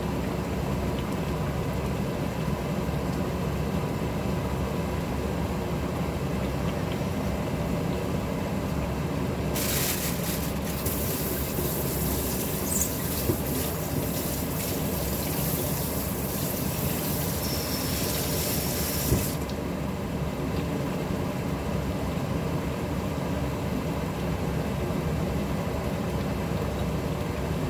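Kitchen tap running for about ten seconds in the middle, over a steady low hum; a few light clicks and a single knock as the water stops.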